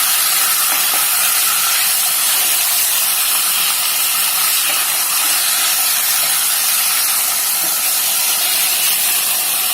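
Chicken pieces sizzling in hot oil with fried onions and spices in a pan: a loud, steady hiss.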